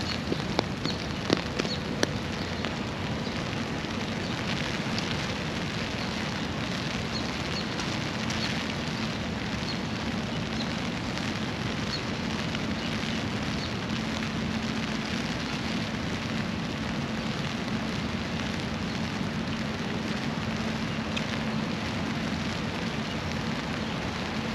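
Steady rain falling and pattering densely on surfaces, with a few sharper drop ticks in the first couple of seconds and a faint steady low hum underneath.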